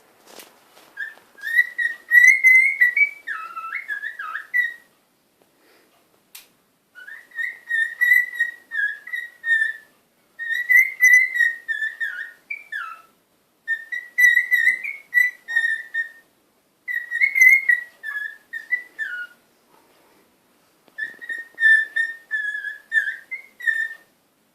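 Cockatiel singing: six warbling whistled phrases, each a few seconds long, separated by short pauses.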